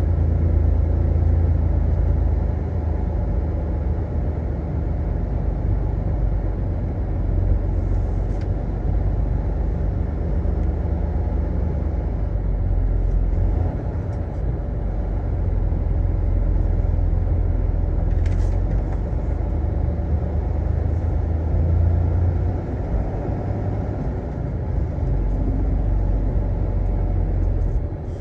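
Semi-truck running with a steady low engine and road rumble, with a few faint ticks now and then.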